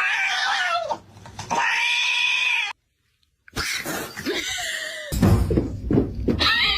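Cats meowing in long, drawn-out calls, broken by a sudden second of dead silence in the middle. Low rumbling noise runs under the later calls.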